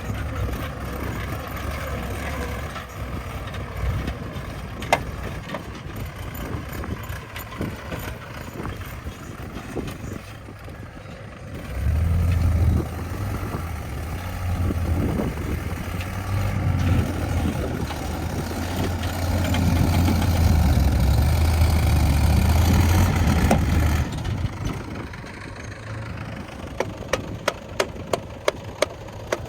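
Heavy diesel earth-moving machinery running. The engine note grows much louder and deeper a little before halfway, holds there for about twelve seconds as if working under load, then drops back. A run of sharp clicks comes near the end.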